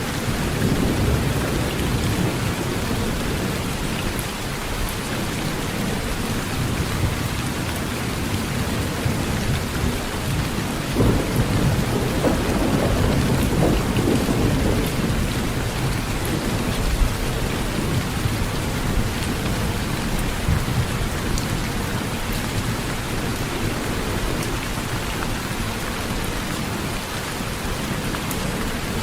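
Heavy rain drumming steadily on a tin roof, with low thunder rumbling underneath that swells about eleven seconds in.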